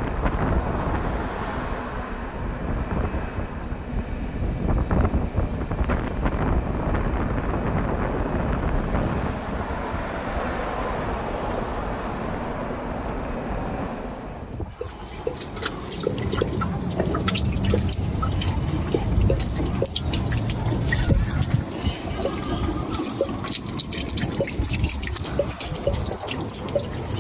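Water running and dripping off a large ice formation on a house, a steady splashing. About halfway through it changes abruptly to a brighter sound of many sharp drips and ticks.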